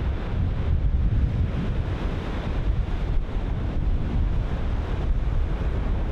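Ocean surf breaking continuously, with strong wind buffeting the microphone as a low rumble.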